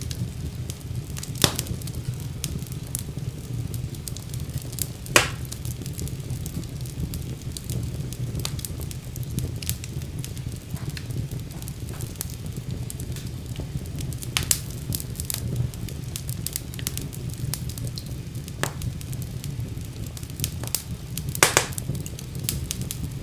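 Wood fire burning in a fireplace: a steady low rumble of flame with irregular crackles and a few sharp, louder pops.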